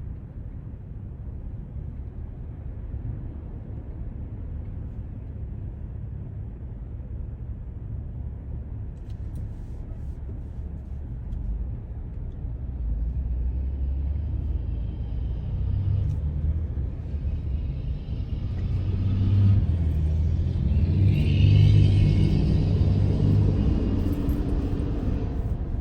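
Road and engine noise heard inside a car travelling at highway speed: a steady low rumble that grows louder and brighter in the second half.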